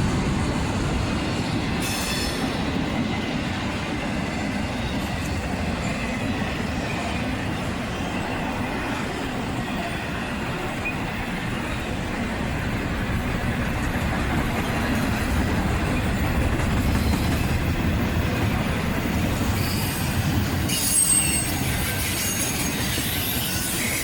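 Intermodal freight train's cars rolling past: a steady rumble of steel wheels on rail, with a high-pitched wheel squeal near the end.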